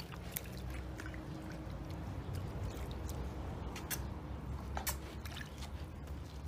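Water pouring and running, a steady rushing noise with a low rumble under it and a few sharp clicks.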